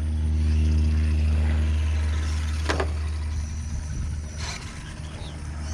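A motor vehicle's engine running steadily with a low hum that drops away about halfway through. Two sharp clicks come partway through, the second near the end.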